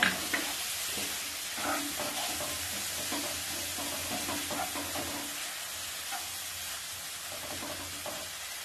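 Ground spice paste and onions frying in hot oil in a non-stick kadai, sizzling steadily while a wooden spatula stirs and scrapes them around the pan in short, irregular strokes.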